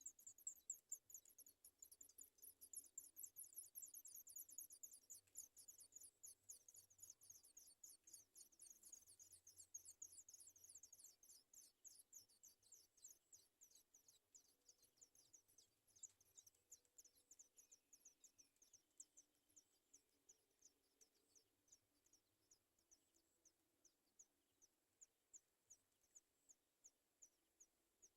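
Sooty chat nestlings begging for food: a faint, fast run of very high, thin cheeps, each sliding downward. The calls come thick and fast at first, then thin out to a few a second.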